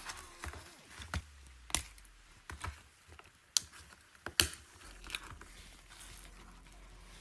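Irregular sharp clicks and taps of small hard parts and tools being handled on a scale model car, about a dozen over several seconds, the loudest about four and a half seconds in.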